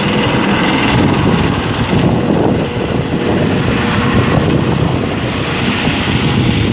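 Air ambulance helicopter's turbine and rotor running loud and steady on take-off, mixed with wind rumbling on the microphone.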